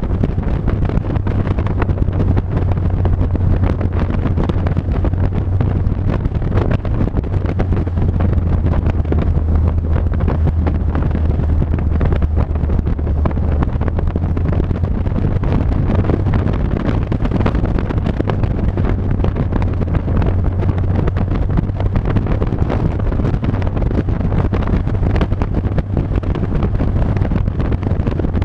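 A vehicle driving at a steady speed, with a constant low engine drone under heavy wind noise buffeting the microphone.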